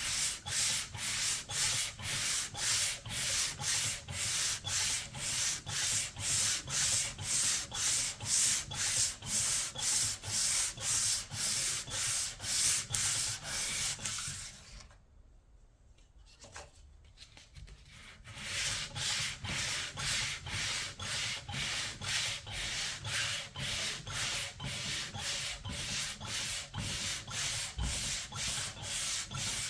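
Hand sanding, back-and-forth strokes of sandpaper taking old paint and finish off, about two strokes a second. The strokes stop for a few seconds about halfway through, then resume a little faster and lighter.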